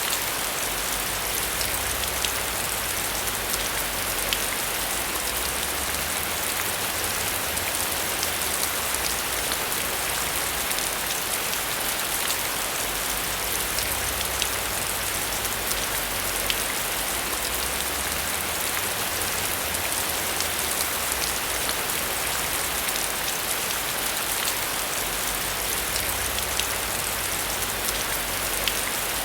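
Heavy rain falling steadily, with scattered sharp drop ticks and a low rumble that comes and goes underneath.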